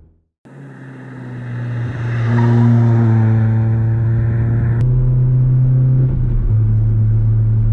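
Toyota Starlet's 1.3-litre four-cylinder engine running: first the car approaching and growing louder over a couple of seconds, then, after a sudden change about five seconds in, a steady drone as heard from inside the cabin, dropping a little in pitch a second or so later.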